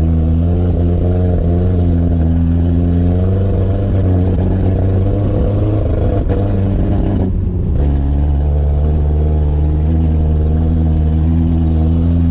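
Truck engine running steadily as the truck drives along, with a brief dip in the sound about seven and a half seconds in.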